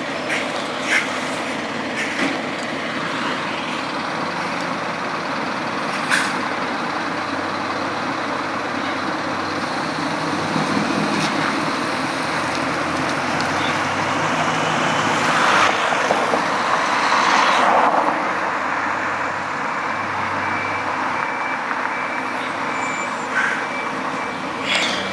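Heavy trucks running and moving, their engines making a steady noise, with two louder stretches of air hiss past the middle that are typical of truck air brakes.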